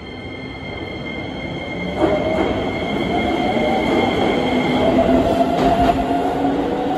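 Keisei 3000-series electric train pulling into an underground platform: a rumble that grows louder, rising sharply about two seconds in, with a steady whine and clacks of the wheels over rail joints as the cars roll past.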